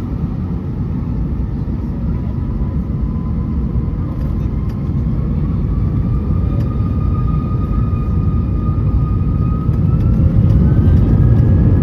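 Airbus A320 jet engines spooling up to takeoff thrust, heard inside the cabin: a deep rumble that grows steadily louder under a whine that rises in pitch as the engines wind up for the takeoff roll.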